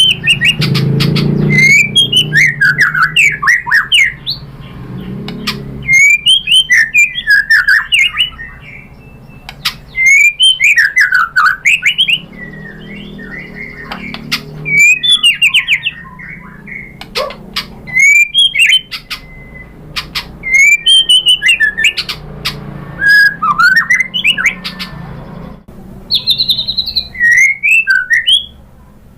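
White-rumped shama (murai batu) singing loud, rapid phrases of whistled and chattering notes, about eight bursts each a second or two long with short pauses between, the kind of song played to provoke other shamas into singing.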